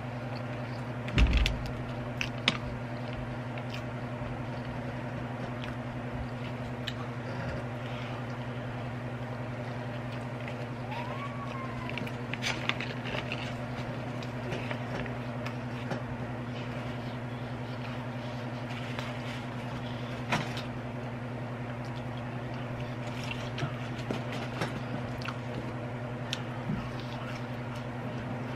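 Close-up chewing and mouth sounds of a person eating a cheeseburger: scattered wet smacks and clicks, with a low thump about a second in. A steady low hum runs underneath throughout.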